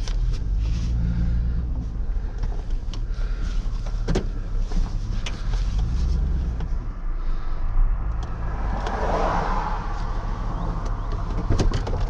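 A vehicle engine running steadily, with a few scattered knocks.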